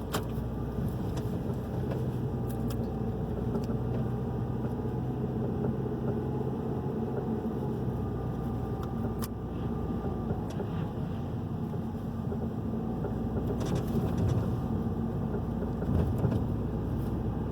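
Hyundai i30's 2.0 four-cylinder engine and tyres running steadily while driving, heard from inside the car, with a few faint clicks.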